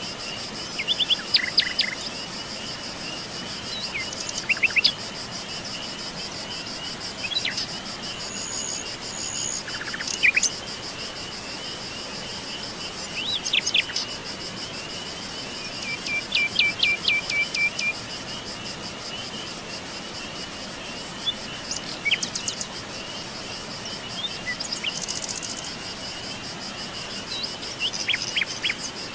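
Songbirds chirping and calling in short, scattered bursts over a steady high-pitched insect trill, like crickets.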